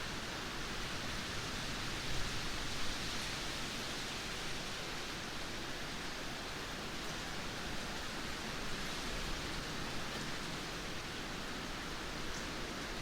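Heavy rain pouring down steadily, a dense, even hiss of countless drops with no break.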